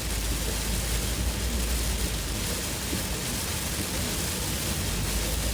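Heavy monsoon rain beating steadily on a moving car, with a low rumble of the engine and tyres underneath.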